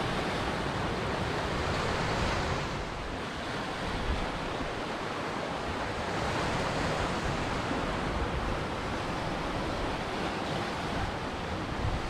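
Ocean surf: waves washing in as a steady rush of noise that swells gently a couple of times.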